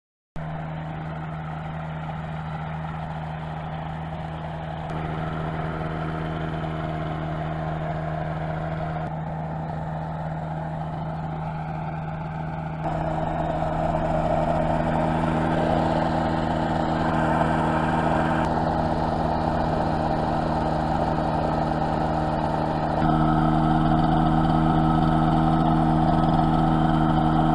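Recoil-started gyroplane engine running steadily on a test run after restoration, holding an even pitch and getting louder in a few abrupt steps, about a third of the way in, about halfway and near the end.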